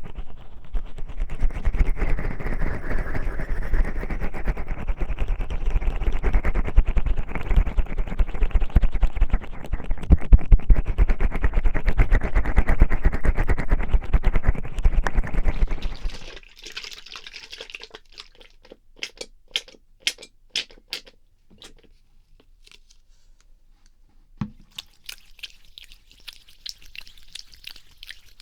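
Oiled hands rubbing and massaging the ears of a 3Dio binaural microphone: a loud, dense wet rubbing for about sixteen seconds, then much quieter scattered sticky clicks, a soft thump and a faint light rubbing near the end.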